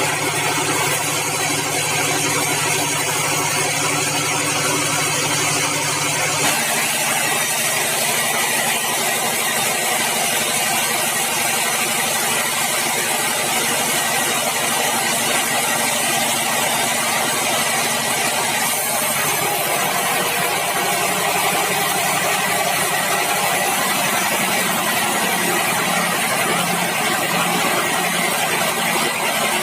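Bandsaw mill running steadily: a continuous machine drone over a broad hiss. The tone of the drone changes about six seconds in and again about nineteen seconds in.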